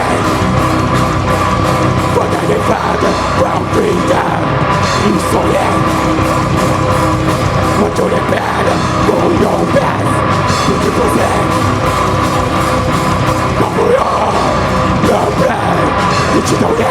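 A rock band playing live and loud, with distorted electric guitars, bass and drums running continuously and a shouted, heavy-metal style vocal over them.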